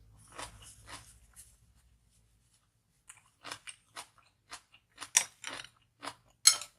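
A person chewing and crunching food during a mukbang: soft chewing at first, a short pause, then a run of irregular crisp crunches in the second half.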